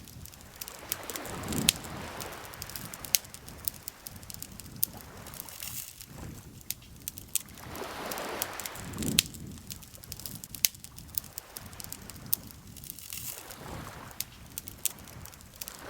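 Wood campfire crackling with frequent sharp pops, over gentle lake water lapping in slow swells about seven seconds apart.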